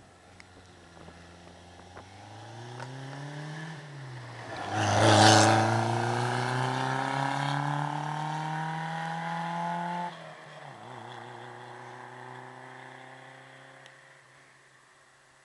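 Renault Alpine A110's four-cylinder engine accelerating hard through the gears as the car comes past and pulls away. The pitch drops at a gear change about four seconds in and again about ten seconds in, loudest just after the first change, then the sound fades into the distance.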